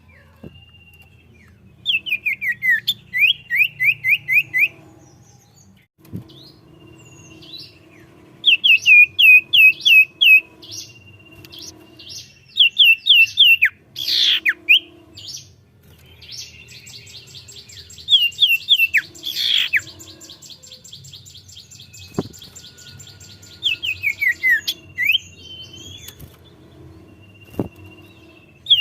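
Common iora (cipoh) in full song: runs of rapid down-slurred whistled notes, about three a second, between long held whistles, with a fast buzzy trill about two-thirds of the way through.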